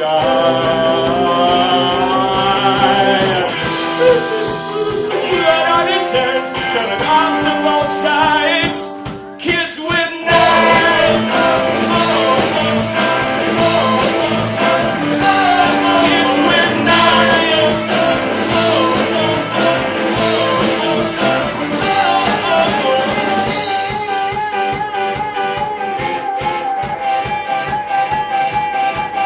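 A live rock band playing, with electric guitars and a drum kit. The band drops out briefly about nine seconds in, then comes back in at full strength. A wavering held note sounds over the band near the end.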